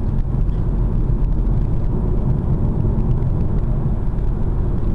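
Steady low rumble of road and engine noise inside a car's cabin, cruising at about 80 km/h.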